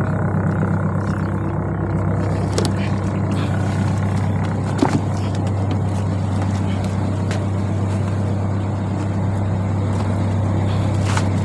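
Fishing boat's engine running steadily at a constant low drone, with a few faint knocks on top.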